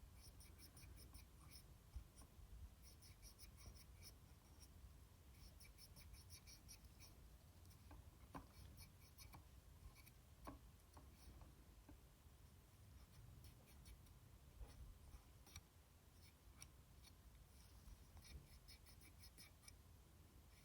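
Brush scrubbing the plastic cooling fan of a PS4 Slim, a quiet scratchy rasp in short rapid bursts every few seconds. A few sharper clicks come near the middle.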